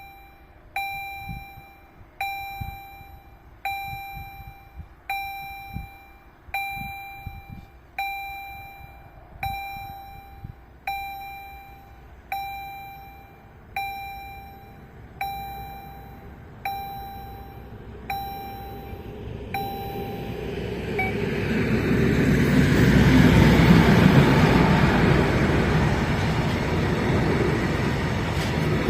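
Level-crossing warning bell striking about every one and a half seconds, about fourteen strikes, then stopping; a train then approaches and passes, its rumble rising to its loudest a few seconds later and running on.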